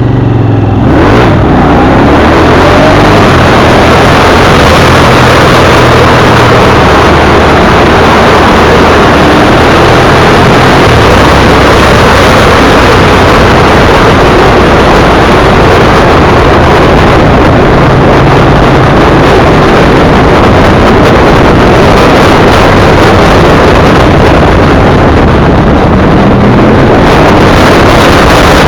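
Sport motorcycle's V-twin engine pulling under way, nearly buried under a loud, steady rush of wind. The engine note rises in the first few seconds and again near the end as the bike accelerates.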